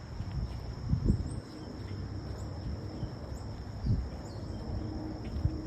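Outdoor ambience: a low rumble of wind on the microphone, a steady high insect drone and a few faint short bird chirps, with dull thumps about a second in, near four seconds and near the end.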